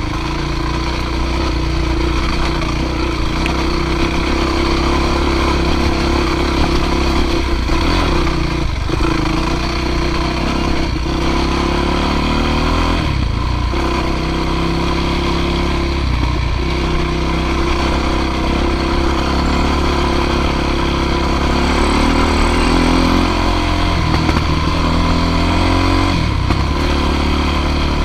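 Dirt bike engine running under load as it is ridden, the engine note stepping up and down with throttle and gear changes.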